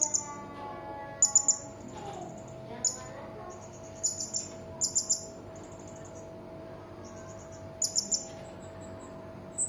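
Serindit (hanging parrot) giving short, shrill, high-pitched chirps in quick clusters of two or three, about every second or so, over a faint steady hum.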